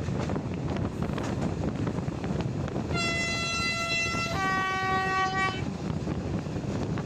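Diesel locomotive horn sounding two notes, a higher one for about a second, then a lower one for about a second. Heard from the moving train's window over the steady rumble of the wheels and the wind.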